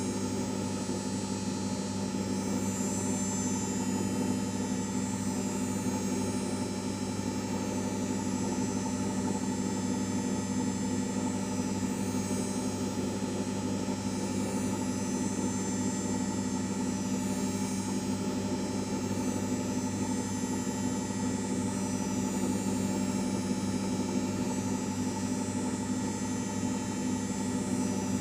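LG 5 kg washing machine running steadily: a constant motor hum with a faint high whine above it.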